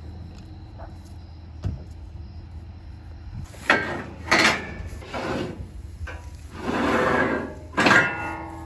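Low steady engine hum, then from about halfway a series of sharp clunks and a drawn-out scrape, with a brief ringing tone after the last clunk.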